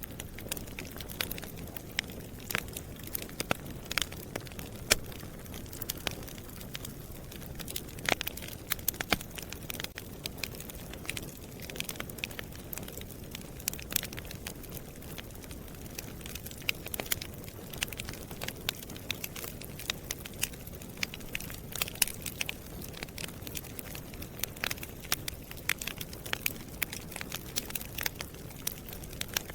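Wood fire burning in a fireplace: a steady low hiss and rumble with frequent irregular crackles and sharp pops.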